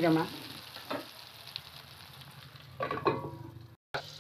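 Potala (pointed gourd) pieces sizzling in oil in an aluminium kadai. A metal spatula scrapes squeakily against the pan at the start and again about a second in, and there is a ringing metal clatter near the end as the pan is covered with a steel lid.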